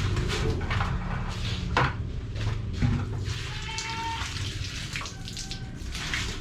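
Wet concrete mix sloshing and splashing as it is poured and worked, with several sharp splashes.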